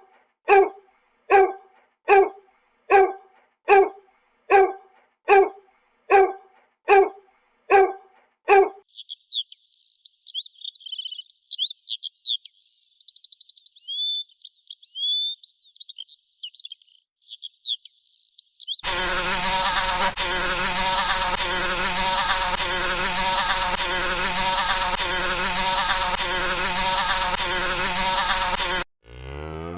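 A run of animal sounds. First comes a hen's clucking, evenly repeated about once every three-quarters of a second. Next, small birds chirp and twitter in quick high notes. Then a flying insect gives a loud, steady buzz for about ten seconds, and a cow's moo begins at the very end.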